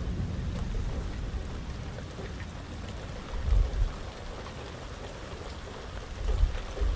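Steady rain falling on surfaces, with scattered drop ticks, and low rumbles from the storm swelling about halfway through and again near the end.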